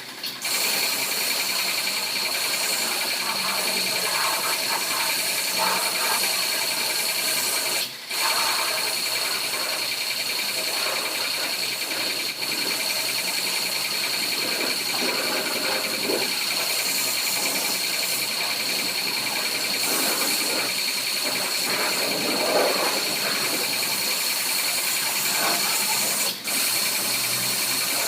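Car-wash machine running steadily, a high whine over a constant hiss, cutting out briefly about 8 seconds in and again near the end.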